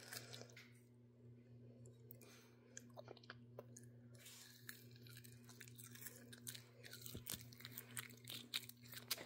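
Close-up chewing of a firm unripe banana: faint wet mouth clicks and smacks, sparse at first and coming faster and louder in the second half.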